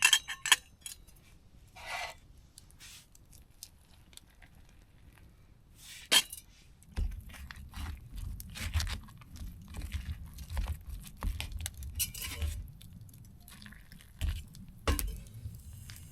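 Clicks and clinks of camp cookware and utensils while mashed potatoes are being made, with a sharp click about six seconds in. From about seven seconds in, a low rumbling with soft knocks runs underneath.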